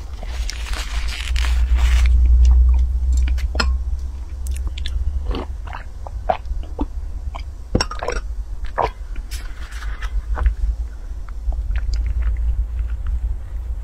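Close-miked eating sounds: chewing soft mango crepe cake with wet mouth clicks and smacks, and a sip from a glass cup. A steady low hum runs underneath.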